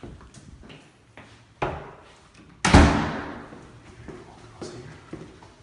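A door shut with a loud bang about two and a half seconds in, ringing briefly as it dies away, after a lighter knock a second before; light footsteps follow.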